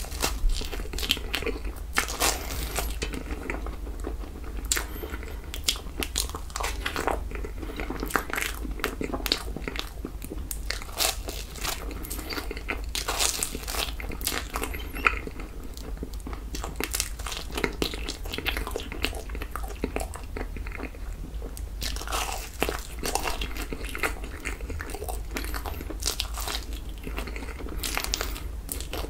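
Close-miked eating sounds: a person biting and chewing toasted marshmallows off a wooden skewer, with irregular mouth clicks throughout.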